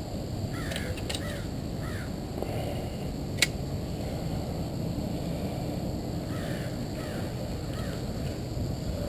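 A bird calling in two short series of three or four harsh calls, over steady low background noise, with one sharp click about three and a half seconds in.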